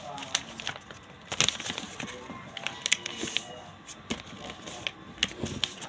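A sheet of paper being folded and creased by hand into a paper airplane: irregular sharp crackles and crinkles.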